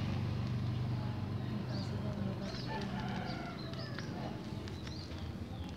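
Bird calls, scattered short chirps and calls, over a low steady hum that fades.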